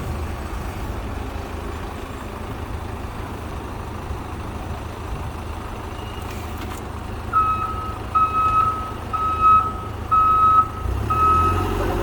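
A fire engine's diesel engine running steadily. About seven seconds in, its reversing alarm starts beeping, a single-pitched beep repeating about one and a half times a second: the truck is backing up.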